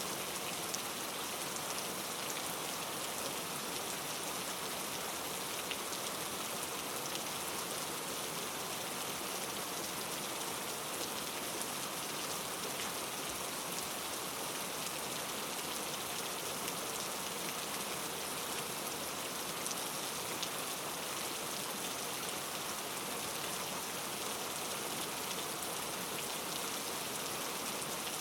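Steady rain falling, a continuous even hiss of drops with fine scattered patters and no thunder.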